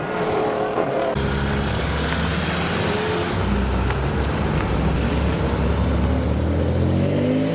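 A loud performance car engine passing close, with a rush of exhaust and tyre noise starting suddenly about a second in. Its note rises in pitch as it accelerates near the end.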